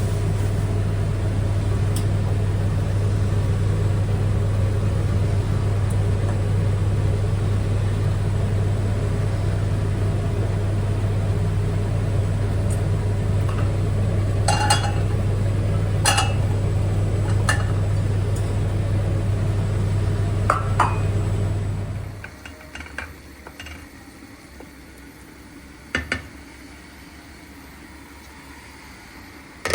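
A steady, loud low motor hum stops fairly abruptly about two-thirds of the way in. Several light clinks, like dishes or glass being handled, come just before it stops, and one more clink follows in the quieter room.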